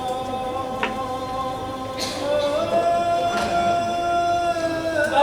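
A voice singing long drawn-out held notes in a slow melody, the pitch stepping up about two seconds in, with a few sharp knocks.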